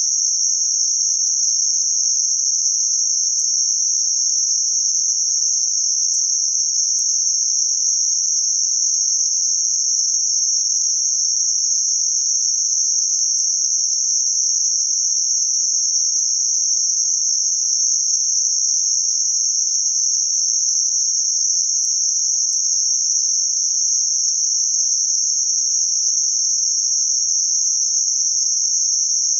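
Synthetic band-limited noise centred around 6051 Hz: a steady, high-pitched hiss confined to a narrow band, unchanging throughout.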